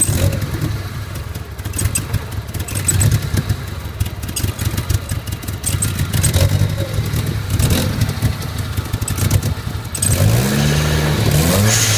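Nissan 200SX's 1.8-litre turbo four-cylinder (CA18DET) idling lumpily and unevenly two weeks after an engine rebuild, a rough idle whose cause the owner has not found. About ten seconds in the engine is blipped, its pitch rising and falling.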